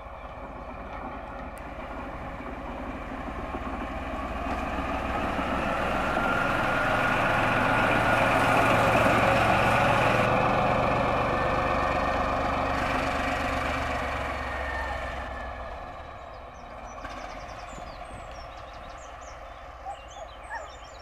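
A train passing by: its running noise builds, peaks about nine seconds in, and fades away over the following several seconds, over a steady low hum.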